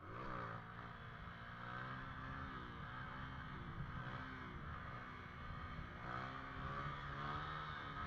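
Motorcycle engine revving, its pitch rising and falling several times as the throttle is opened and eased off, with steady wind rush.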